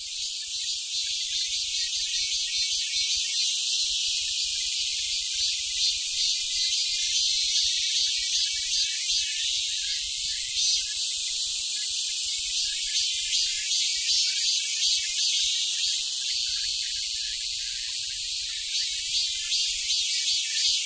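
Robust cicada (Hyalessa fuscata, Korean 참매미) singing: a loud, high-pitched buzzing song made of rapid pulses that runs without a break.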